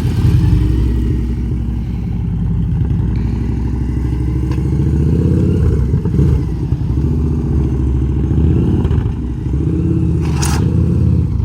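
Heavy cruiser motorcycle engine running at low speed, its pitch rising and falling a few times with the throttle. A short hiss near the end.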